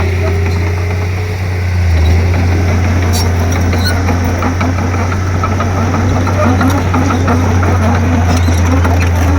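Komatsu D31P crawler bulldozer's diesel engine running steadily under load with a deep, constant hum, with a few sharp clanks along the way.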